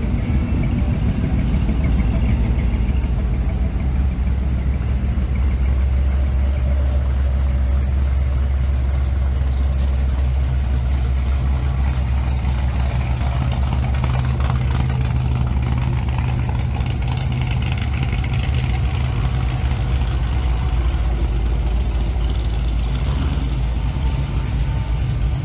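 Vehicle engine idling steadily with a deep low rumble.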